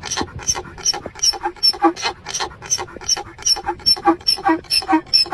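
An animal vocalising in a fast, even run of short sounds, about four or five a second, each with a steady pitch.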